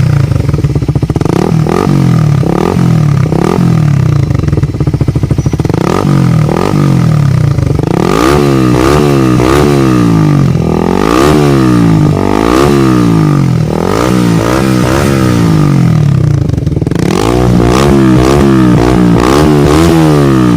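A Suzuki Raider 150's single-cylinder engine is idling and being revved through a gutted stock muffler with a big-elbow header and its catalytic converter refitted, giving a crisp exhaust note. It starts with short throttle blips, then a quick run of repeated revs rises and falls from about eight seconds in, with a short dip before a last series of revs near the end.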